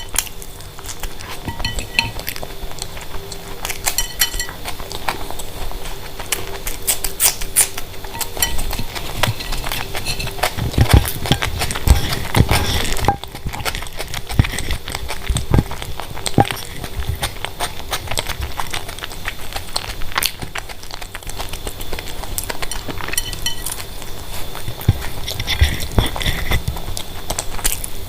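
Close-up eating sounds: chewing and mouth smacks, with irregular clicks and soft knocks throughout.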